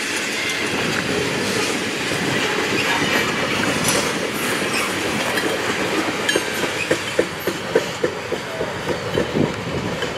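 Freight train tank cars rolling past on the rails, a steady rumble of steel wheels, with a rapid run of sharp wheel clicks from about six seconds in as the last cars go by.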